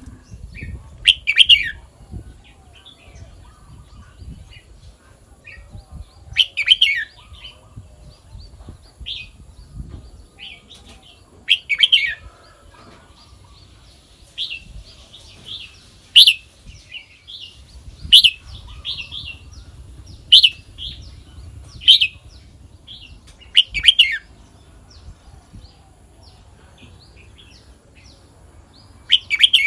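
Red-whiskered bulbul singing: short loud phrases repeated every two to five seconds, with softer chirps in between.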